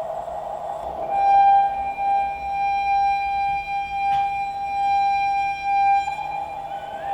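A single steady note held for about five seconds, with a droning hum beneath it and a short click partway through, typical of a sustained sound-art drone.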